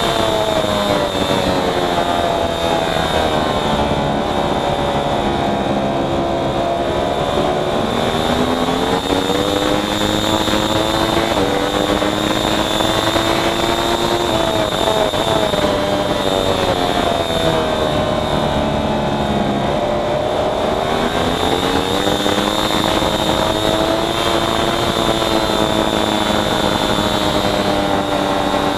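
Racing motorcycle engine at race pace: its pitch drops, climbs back over several seconds, drops again and climbs again as it slows and accelerates, over a steady rushing noise.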